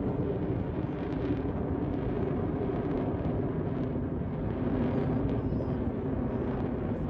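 Jet aircraft engines, a steady, even rumbling noise.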